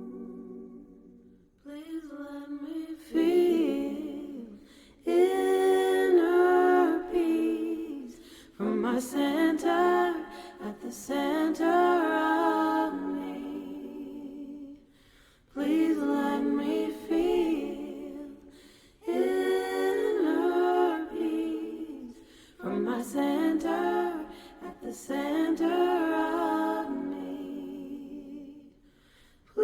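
Unaccompanied singing in melodic phrases a few seconds long, with short breaks between them.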